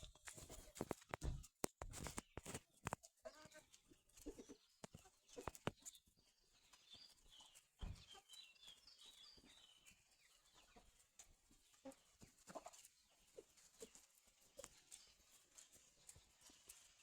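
Chickens clucking faintly, amid scattered sharp clicks and knocks.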